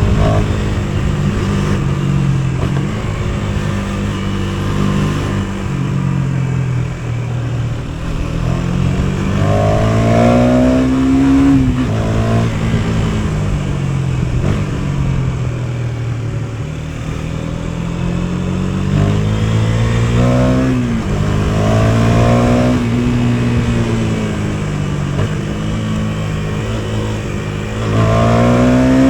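KTM 250 Duke's single-cylinder four-stroke engine riding along, its pitch climbing as it revs up, dropping sharply at gear changes about 12 and 21 seconds in, and sinking again as the throttle is eased, several times over.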